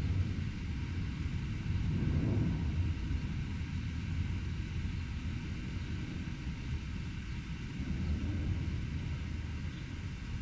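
Steady low rumble of urban traffic, swelling briefly about two seconds in.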